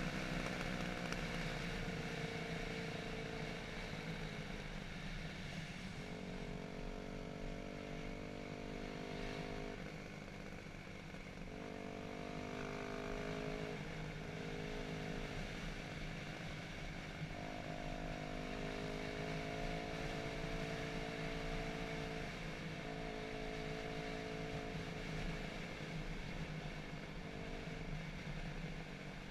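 Dirt bike engine running while being ridden on a trail, its note rising and falling with the throttle and coming and going every few seconds.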